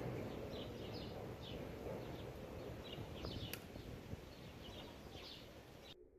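Faint outdoor background with small birds chirping in short, repeated high notes over a low rumble, dying away to silence near the end.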